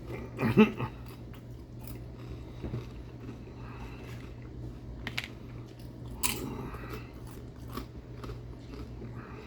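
A person chewing and biting food close to the microphone, with scattered wet mouth clicks and a brief murmur near the start, over a steady low hum.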